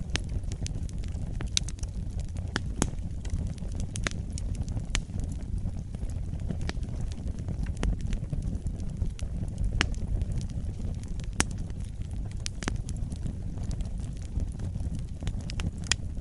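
Fire burning in a fireplace: a steady low rumble with irregular sharp crackles and pops.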